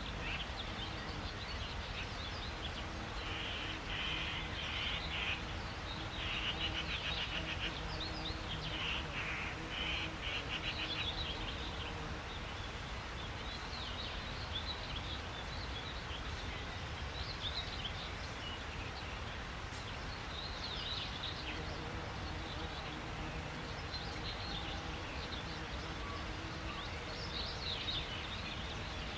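Several songbirds chirping and calling, with fast trills of rapidly repeated notes in the first third, over a steady low ambient rumble.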